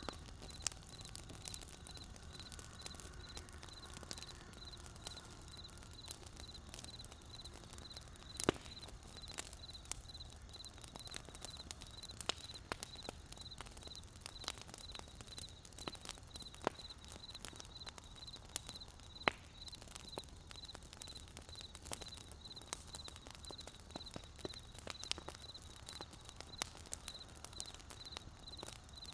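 Wood fire crackling, with irregular sharp pops and one louder pop about eight seconds in, over a low steady rumble. A faint, evenly pulsing high tone runs underneath.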